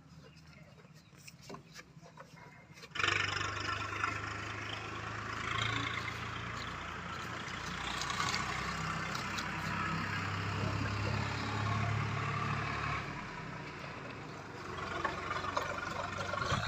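Heavy diesel machine engine comes in abruptly about three seconds in and runs steadily with a deep drone, dipping for a moment late on and building again near the end.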